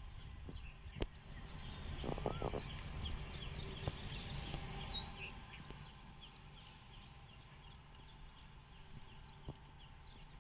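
Small birds chirping over a steady low rumble, with one rising-and-falling call about two seconds in and a few faint clicks.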